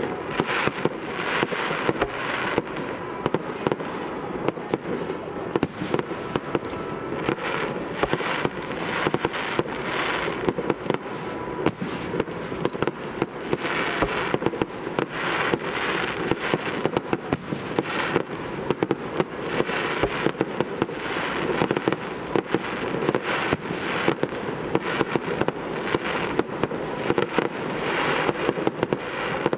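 Aerial fireworks bursting in a dense, continuous barrage of rapid pops and crackles.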